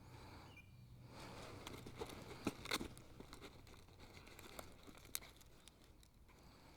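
Faint splashing and rustling as a hooked bass is brought in to the kayak, with a few sharp clicks and knocks, the loudest about two and a half seconds in and another near the end.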